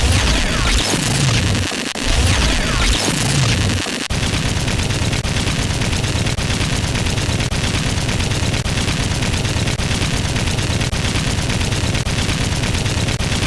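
Sound effects: three quick falling whistles about a second apart, then, from about four seconds in, a continuous burst of rapid machine-gun fire.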